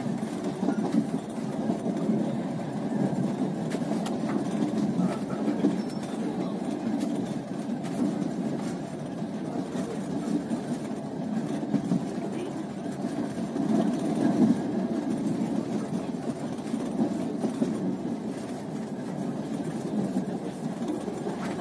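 Passenger train carriage running on the rails, heard from inside the coach: a steady rumble of the wheels and running gear, with a few faint clicks.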